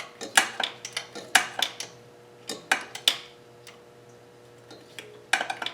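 Metal hand tools and engine parts clicking and clinking together during turbo removal: a run of sharp clinks over the first three seconds, a pause, then a few more near the end, over a faint steady hum.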